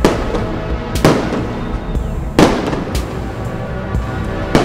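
Holiday fireworks salute exploding: a series of sharp bangs roughly a second apart, each followed by a short rumbling decay, the loudest about halfway through.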